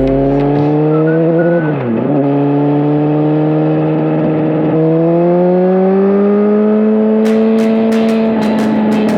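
Suzuki GSX-R1000 inline-four engine and exhaust under way, the engine note climbing slowly as the bike accelerates, with a brief dip in revs about two seconds in, like a gear change, and then settling to a steady pitch for the last few seconds. A few short clicks come in near the end.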